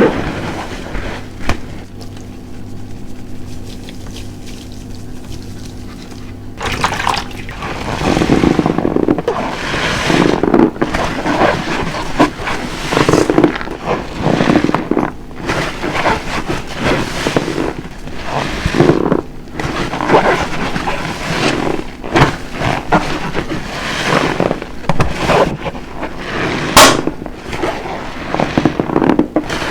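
A large car-wash sponge soaked with Fairy dish detergent and water being squeezed again and again: wet, soapy squelching and sloshing. It is quieter for the first several seconds, then the squeezes come roughly once a second.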